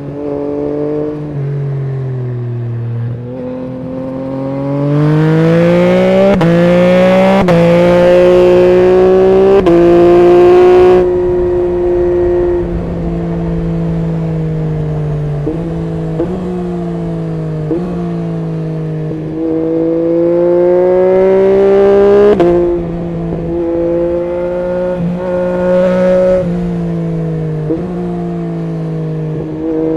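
Yamaha MT-09 SP's 890 cc inline three-cylinder engine running through an Akrapovic full exhaust system while ridden: it accelerates hard twice, pitch climbing and stepping at gear changes, with stretches of steady cruising and brief blips and drops in between.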